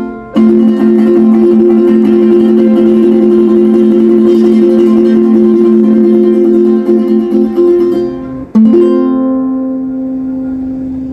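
Strummed acoustic string instruments play the final bars of a song. A held chord is strummed rapidly, there is a short break, and then one last chord is struck and left to ring out and fade.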